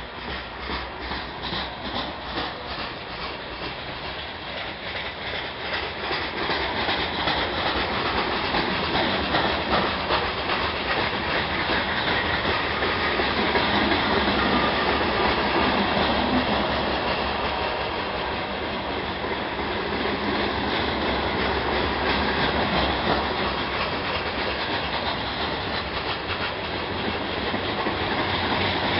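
Freight train of gravel cars rolling past at slow speed, wheels clicking rhythmically over the rail joints. The rolling grows louder about a quarter of the way in and then holds steady.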